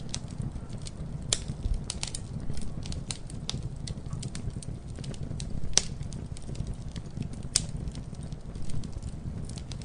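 Campfire burning with a steady low rumble of flames and irregular sharp crackles and pops of the wood, two of them louder, about six and seven and a half seconds in.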